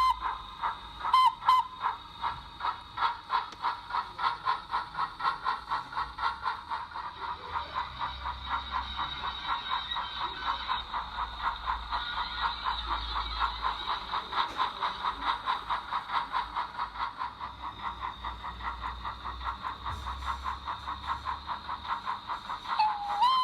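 Digital steam sound from a Zimo MX645R sound decoder in a Hornby Thompson Class O1 model locomotive. It is playing an LNER two-cylinder sound file through a small DS100 speaker: a short whistle toot about a second in, then a steady rhythm of exhaust chuffs, and the whistle sounding again near the end.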